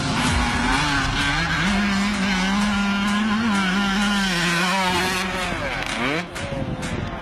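Motocross motorcycle engines running and revving, their pitch wavering up and down, with a quick rising rev about six seconds in.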